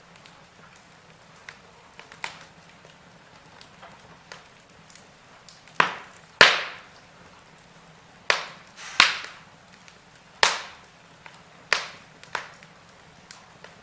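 Wood fire in a fireplace crackling: a string of sharp pops and snaps, the loudest ones bunched from the middle onward, over a faint steady hiss.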